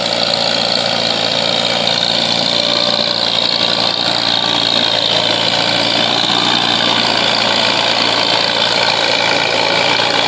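Tractor engine running hard under load, pulling a weight sled down the pulling track. The engine holds steady.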